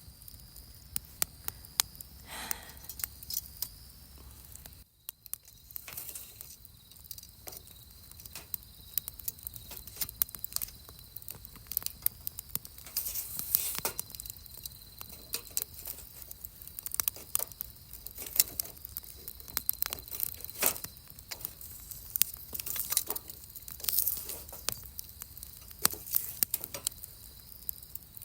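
Wood campfire crackling, with frequent irregular sharp pops and snaps from the burning wood.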